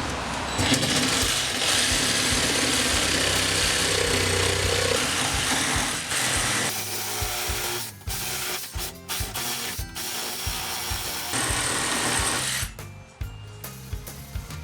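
A power saw cutting a piece of wood, running steadily for about six seconds and then on and off for several more, over background music with a steady beat.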